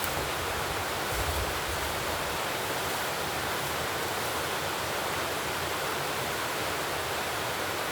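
Steady rushing outdoor noise, even and unbroken, with a few faint low bumps about a second in.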